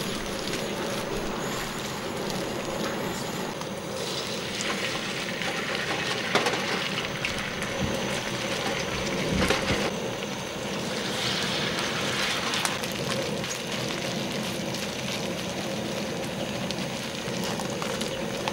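Kimchi pancake batter sizzling in hot oil on a cast-iron pot-lid griddle: a steady frying hiss with crackles and pops, growing busier about four seconds in.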